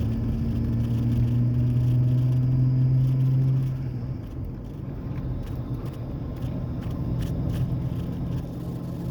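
Exhaust of a muffler-deleted 2003 Ford Ranger 4.0L V6, with its catalytic converters still in place, running with a steady low drone while driving. The drone drops off about four seconds in as the engine eases, then runs on more quietly.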